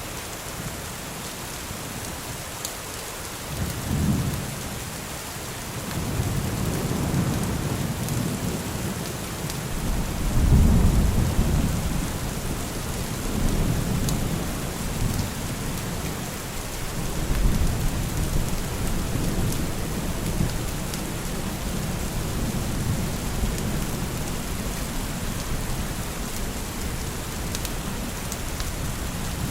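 Steady rain falling, with rolling thunder: a short rumble about four seconds in, then long low rumbles that swell and fade, the loudest about a third of the way through.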